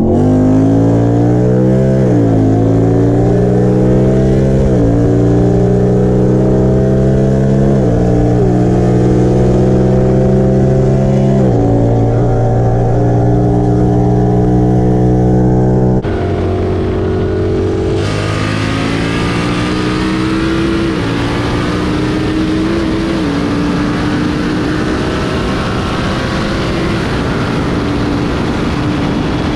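Car engine pulling through the gears, its pitch climbing steadily and dropping at each of about four upshifts. About 16 seconds in the sound changes to a steady rush of wind and road noise, with the engine holding a lower, steadier note underneath.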